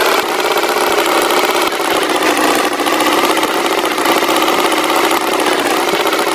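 Tractor engine running steadily at an even, rapid chug.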